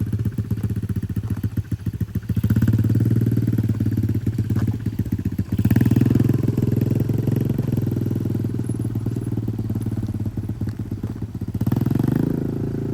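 Single-cylinder 140cc pit bike engine running at low revs, its note picking up a few times (about two and a half seconds in, around six seconds, and again near the end) as the throttle is opened.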